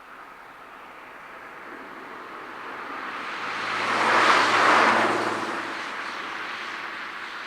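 Bregenzerwaldbahn narrow-gauge steam train passing close by, its noise swelling to a peak about four and a half seconds in and then fading as it moves away.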